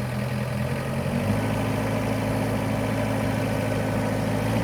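TYM compact tractor's diesel engine running at idle, steady, with a shift in the engine note about a second in.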